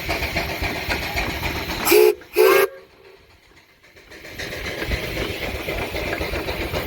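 Steam whistle on a steam traction engine giving two short blasts in quick succession, about two seconds in, over a steady low background rumble.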